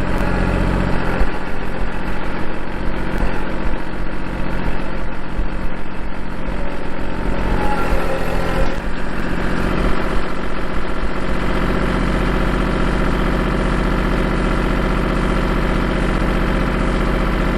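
Kubota L2501 compact tractor's three-cylinder diesel engine running steadily. Its note shifts about nine seconds in and then holds even.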